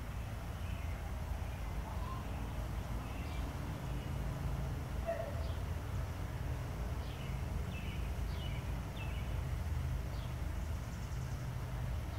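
Small birds chirping in short, scattered calls, several in quick succession about seven to nine seconds in, over a steady low rumble.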